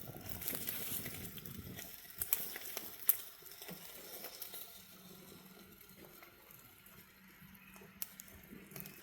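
Crinkling and rustling of MRE food pouches and packaging being handled, with scattered small clicks. Two sharper clicks come about two and three seconds in, and then the handling goes quieter.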